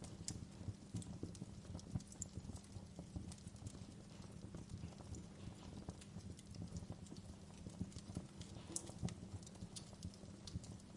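Wood fire crackling in a stone fireplace: irregular sharp snaps and pops over a low, steady rumble.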